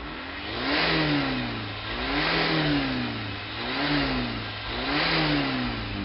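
A vehicle engine revved four times in a row through its exhaust, about once every second and a half, each rev climbing and then falling back in pitch.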